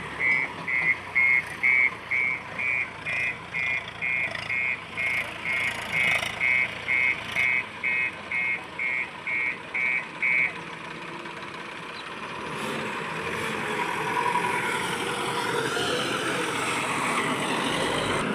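Vehicle reversing alarm beeping about twice a second, slowly growing fainter and stopping a little past halfway. After that a steady vehicle engine sound rises and holds.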